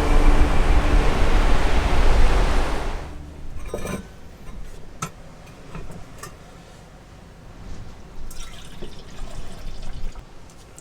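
Coffee being poured, a loud rushing pour that stops about three seconds in, followed by light clicks and knocks of mugs and utensils.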